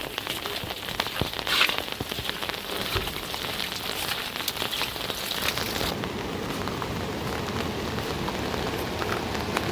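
Rain falling on a hard surface, with many individual drops tapping over a steady hiss. About six seconds in the sound changes abruptly to a smoother, even hiss.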